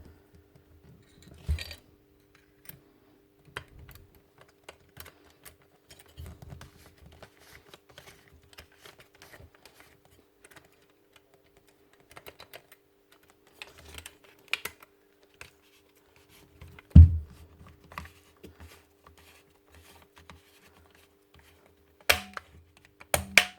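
Scattered small clicks and taps of hand tools and small metal parts being handled during a jigsaw repair, with one heavier knock about two-thirds of the way through and two sharp clicks near the end. A faint steady hum sits underneath.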